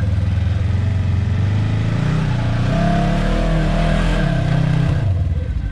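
Side-by-side UTV engine running steadily, then revving from about two seconds in, its pitch rising and falling for a few seconds before dropping back to a steady run near the end.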